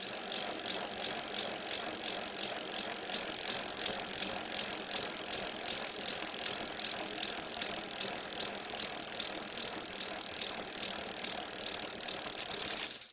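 Stock bicycle sound effect: a bicycle coasting, its rear freewheel clicking rapidly and evenly over a constant high hiss.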